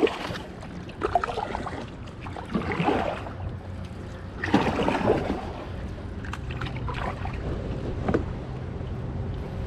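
Kayak paddle strokes in the water: a splash and drip every second or two as the blades dip in turn.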